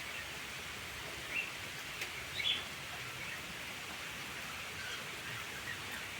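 Steady rain falling, a soft even hiss, with a few short bird chirps in the first half.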